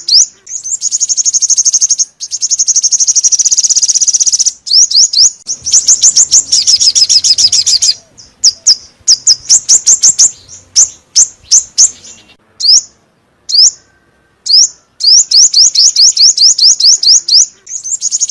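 Recorded calls of the small songbird sold in Vietnam as 'chim 5 màu', of the kind played as a trapping lure: loud runs of rapid, high, sharp chirps, several a second, broken by short pauses.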